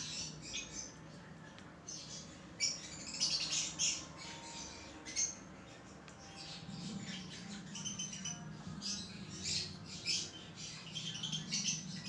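Baby pet bird giving short, raspy high-pitched chirps and squeaks again and again, in scattered runs that are busiest about three seconds in and over the last few seconds.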